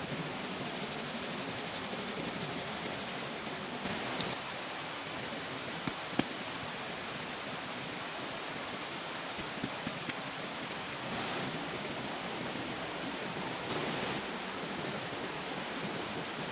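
Steady rushing noise with a few faint knocks, about four and six seconds in.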